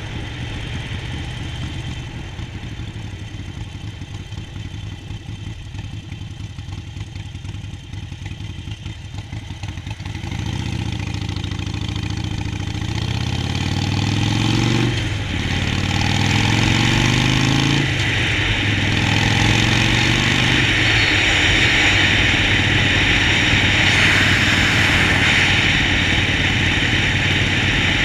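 Harley-Davidson Sportster 48's 1200 cc V-twin engine running at low revs for the first ten seconds. It then accelerates through the gears, with two upshifts about 15 and 18 seconds in, and settles into a steady cruise with a loud rushing noise over the engine.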